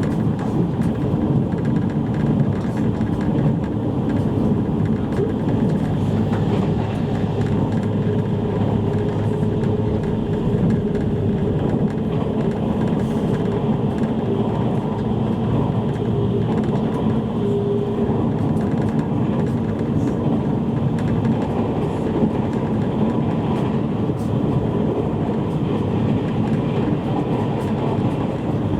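Running noise inside a JR East E653 series electric train car between stations: a steady rumble of wheels on rail, with a faint hum from the train's electric drive.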